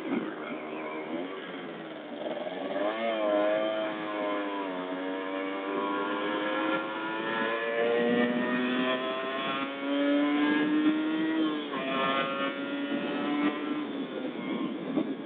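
Kawasaki Ninja motorcycle engine accelerating hard through the gears, its pitch climbing and dropping back at each upshift, about three times.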